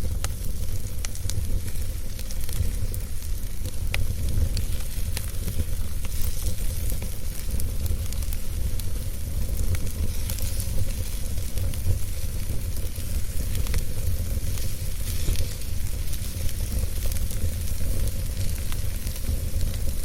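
Wood fire crackling in a fireplace, with frequent small pops and snaps over a hiss, above a steady low rumble.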